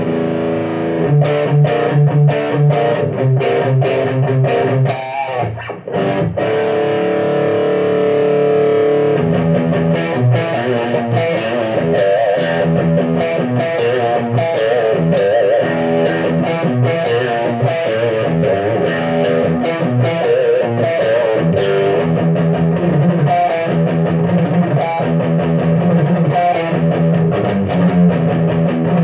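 Electric guitar, a Fender HHH with an alder body and maple neck, played through a pedalboard of effects into a Marshall AVT50 amplifier, with picked notes and chords. A chord is held for a few seconds near the start, then the playing turns to quicker picked lines.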